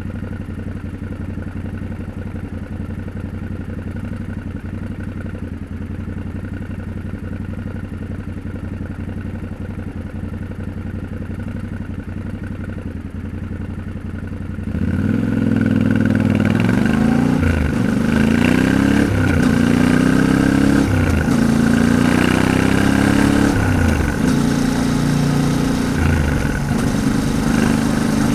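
Yamaha Ténéré 700's parallel-twin engine idling steadily, then about halfway through it gets louder as the bike pulls away, the pitch rising and dropping several times as it accelerates up through the gears.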